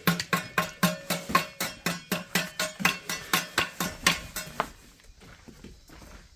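Rapid, evenly spaced percussive knocks, about four a second, each with a short pitched ring. They stop abruptly about two-thirds of the way through, leaving faint scattered clicks.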